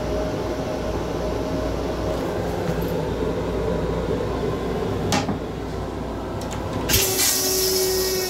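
Steady rumble of an M7 railcar heard inside its small restroom. A sharp clack about five seconds in comes as the plastic toilet seat is lifted. A loud hiss starts suddenly about seven seconds in.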